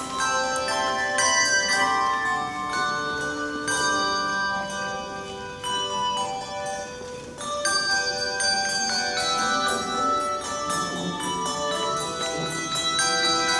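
A handbell choir playing a melody over chords: many bells struck in turn, each note ringing on and overlapping the next, with a brief lull about seven seconds in.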